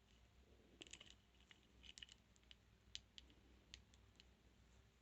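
Faint, irregular clicking of a metal rake pick working the pin tumblers inside a transparent practice padlock, a dozen or so small clicks at uneven intervals.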